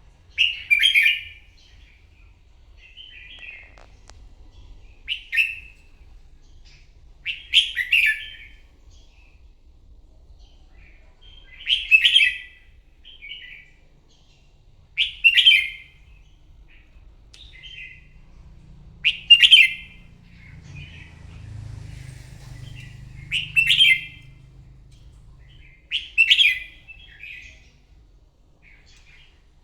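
Red-whiskered bulbul singing: about eight short, loud, warbled phrases, one every three to four seconds, with softer phrases in between.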